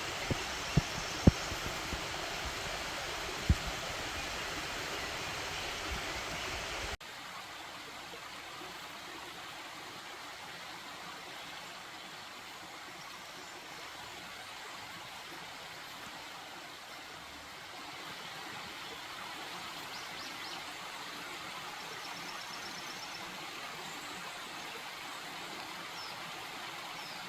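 Steady rushing water of a valley stream, with a few sharp knocks in the first few seconds. About seven seconds in it cuts abruptly to a quieter, even rush of water with faint high chirps.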